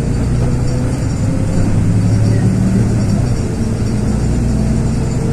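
Cabin sound of a LiAZ 6213.22-01 articulated city bus under way: its diesel engine drones steadily with road rumble, and a faint whine drifts slightly in pitch.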